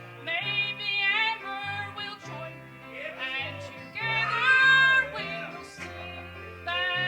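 A gospel song: voices singing over instrumental accompaniment, with held bass notes moving under the melody.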